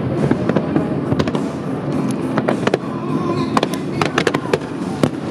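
Fireworks display: a rapid series of sharp bangs and reports from shells and comets fired from the water, thickest about four seconds in. Accompanying music plays underneath.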